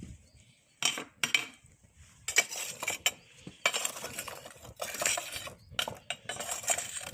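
Lumps of charcoal clinking and scraping against each other and the small Japanese charcoal grill as they are handled, in a string of short, irregular clattering bursts.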